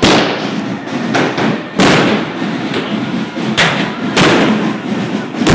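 Firecrackers going off in a series of loud, sharp bangs, about five big ones with smaller cracks between, over a continuous background din.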